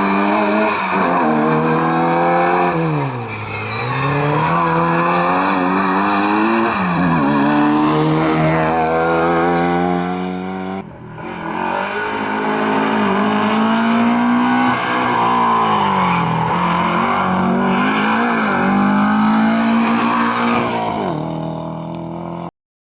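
Rally car engines under hard acceleration, the pitch climbing and then dropping again and again with gear changes and lifts off the throttle. An abrupt edit about eleven seconds in breaks into a second run of the same, and the sound stops suddenly near the end.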